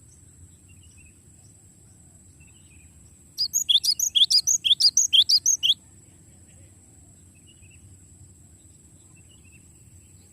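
Cinereous tit (glatik batu) singing one fast rolling phrase of about fifteen quick, high, repeated notes lasting just over two seconds, starting about three and a half seconds in. Faint chirps are heard before and after it.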